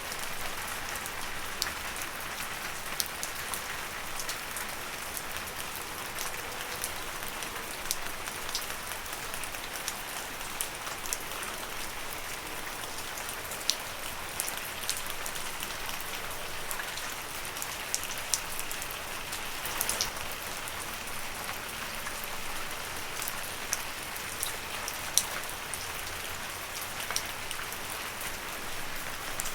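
Steady gentle rain falling on leaves, a constant hiss with scattered louder drops ticking close by.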